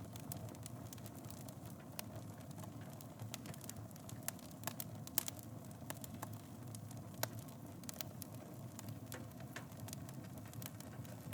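Wood fire burning in a fireplace: a steady low rumble of flames with frequent irregular crackles and snaps, a few louder pops among them.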